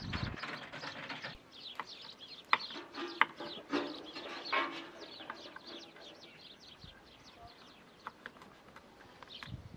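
Many small birds chirping, short falling calls overlapping one another, with a few sharp clicks in the first half.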